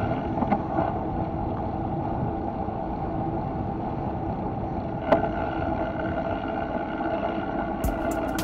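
Steady rolling and wind noise from a bicycle in motion, heard through a low-mounted camera microphone, with a constant hum under it. A single sharp click comes about five seconds in, and quick ticking starts near the end.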